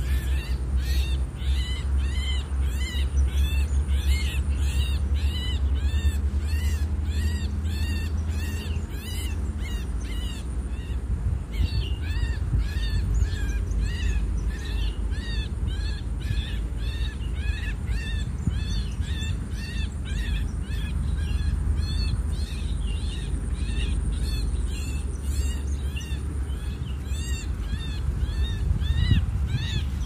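Birds chirping, short chirps repeated steadily about two a second, over a low rumble.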